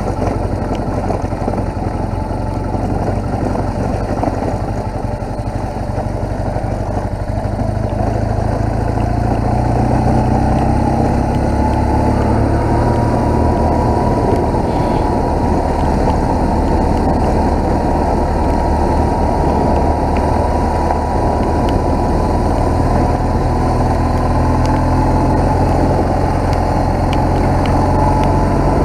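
BMW R1200GS motorcycle's boxer-twin engine running steadily under way. The engine note climbs a little about ten seconds in as the bike picks up speed.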